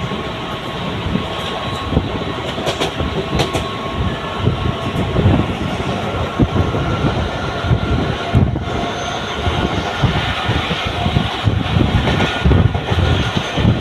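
Mumbai suburban electric multiple-unit local train running along the track: a steady rumble with irregular clattering knocks from the wheels over the rails and faint steady tones.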